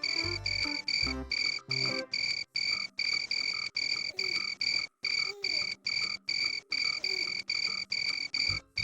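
Cricket chirping in an even rhythm, about three clear high-pitched pulses a second. Low musical notes sound under it in the first two seconds.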